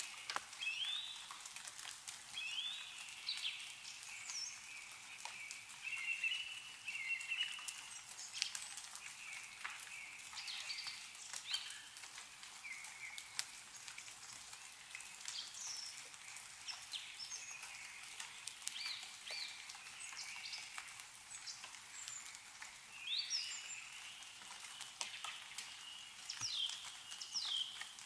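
Small songbirds chirping and twittering over and over, many short rising and falling notes, with scattered drips of meltwater falling from snowy trees.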